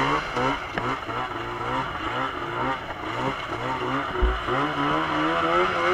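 Arctic Cat M7 snowmobile's two-stroke engine revving up and down repeatedly, its pitch rising and falling in quick surges. There is a low thump about four seconds in.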